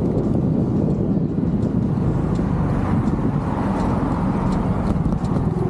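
Genuine Buddy 170i scooter engine running with a steady low drone, mixed with road noise.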